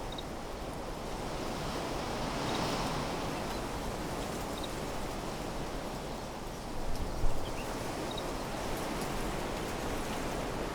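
Wind blowing through trees in slow gusts, with faint high double chirps every couple of seconds and a brief buffet of wind on the microphone about seven seconds in.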